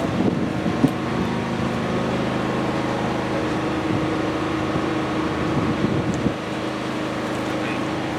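Isuzu FVZ34 dump truck's diesel engine idling steadily.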